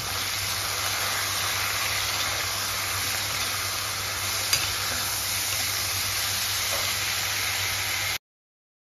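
Potato wedges and chopped dill sizzling as they fry in an aluminium kadhai, stirred with a metal spatula, with one sharp tap about four and a half seconds in. The sizzle cuts off suddenly near the end.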